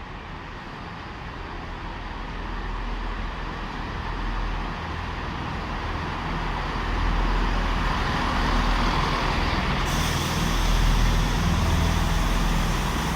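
A train approaching, a low rumble that grows steadily louder over several seconds, with a sudden hiss joining about ten seconds in.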